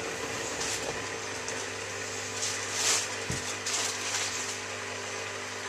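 Miele W3744 washing machine running mid-cycle: a steady hum with a few short hissing swishes of water.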